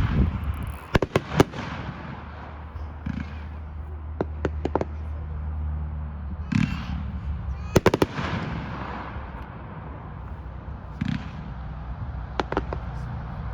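Consumer aerial firework cake firing: a run of sharp bangs in small clusters, a few seconds apart, as shells launch and break.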